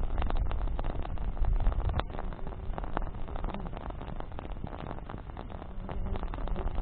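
Wood bonfire burning: a steady run of crackles and small pops over a low rumble, with one sharper pop about two seconds in.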